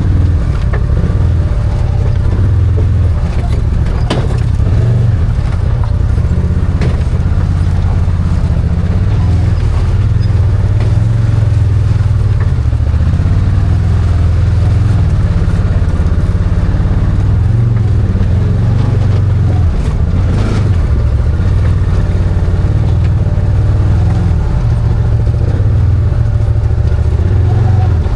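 Arctic Cat Wildcat 1000 side-by-side's V-twin engine running steadily while under way, with a few knocks and rattles along the way.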